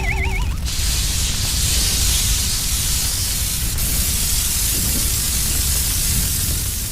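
A wobbling, rising cartoon-style tone for the first half second, then a steady, loud hiss like spraying, over a low rumble.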